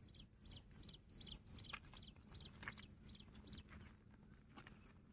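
Bush quail calling: a faint, rapid series of short high notes, about three a second, that stops about three and a half seconds in.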